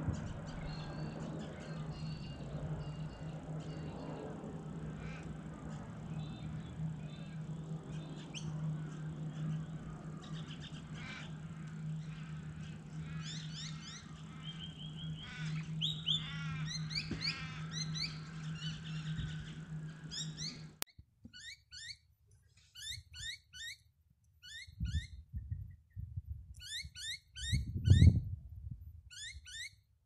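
Birds chirping and calling over a steady low hum, the calls thickest toward the middle. About two-thirds of the way in the sound cuts abruptly to a single bird giving quick chirps in short runs of three or four, repeated, with a few low thumps.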